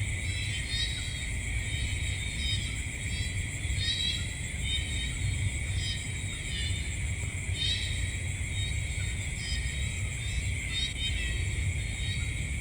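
Night insect chorus: a steady high trilling with short chirps repeating over it, above a low rumble.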